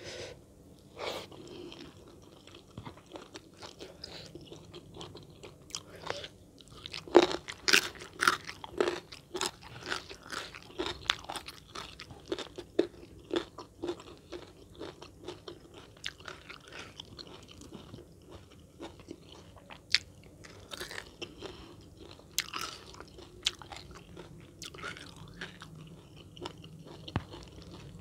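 A person chewing and biting food, with frequent crisp crunches at an uneven pace, thickest in the middle of the stretch.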